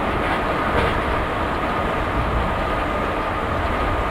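Animation sound of an ICE high-speed train running along the track: a steady rumble and rush with a constant high hum over it and a couple of faint clicks.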